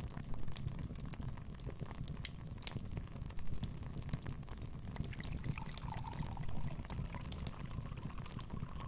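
Wood fire burning in a fireplace: a steady low rumble of flames with sharp, irregular crackles and pops throughout. A faint wavering whistle joins in about five and a half seconds in.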